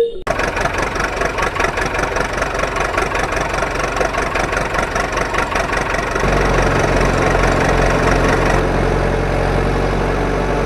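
Tractor-type engine running with a fast, even knock. About six seconds in, a deeper steady idle comes in under it.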